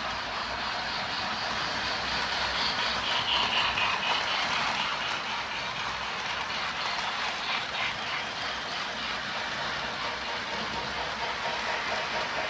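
Lionel O scale toy train running along its track, a steady rolling and motor rattle that grows a little louder a few seconds in, as if passing closer.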